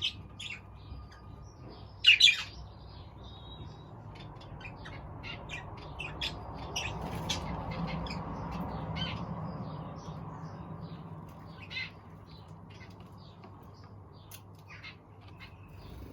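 Aviary birds calling: many short chirps and squawks, with a loud squawk about two seconds in. A low rumble swells in the middle and then fades.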